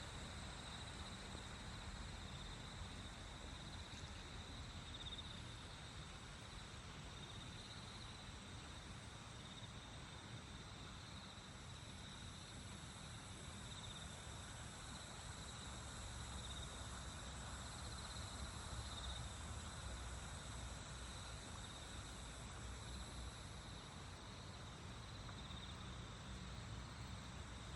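A chorus of insects trilling steadily in high, even tones, with a low rumble underneath.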